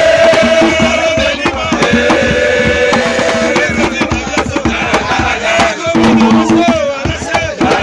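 Drums beating steadily under a group of voices singing and chanting.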